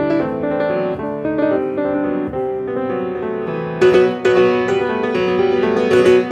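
Solo acoustic piano playing a flowing passage of notes; about four seconds in the playing grows louder with more forcefully struck chords.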